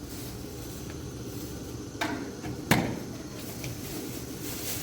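Two sharp knocks, a lighter one about two seconds in and a louder one just after, over a steady low hum.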